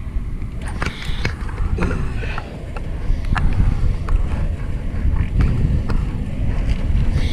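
Riding a fixed-gear bicycle: a steady low rumble of wind and road on the microphone, with scattered clicks and rattles from the bike. It grows louder about three seconds in.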